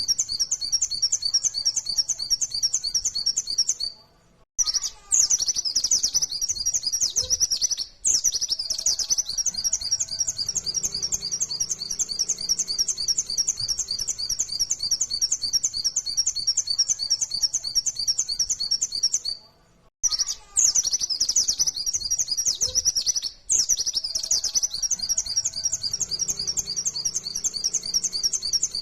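White-eye (pleci) singing a fast, unbroken run of high, chattering notes, the loud 'nembak' song used as a lure to set other white-eyes singing. Brief pauses come about four and twenty seconds in. The same passage repeats, as a looped recording.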